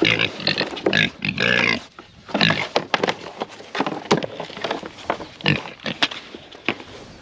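Pigs squealing and grunting in short, irregular bursts, loudest in the first second and a half: hungry pigs clamouring at feeding time.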